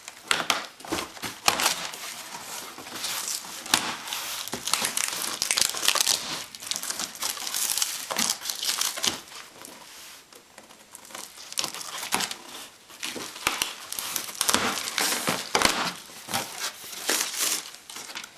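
Box packaging being opened and handled: irregular crinkling and rustling of plastic and cardboard, with many small clicks and knocks.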